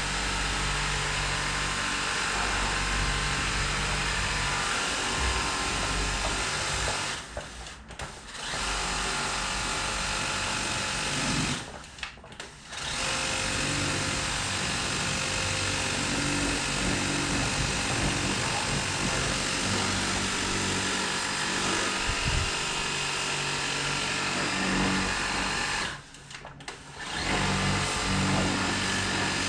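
Kobalt 600 psi battery-powered electric pressure washer running: its pump motor hums under the hiss of the water jet. It cuts out briefly three times, as happens whenever the trigger is let go.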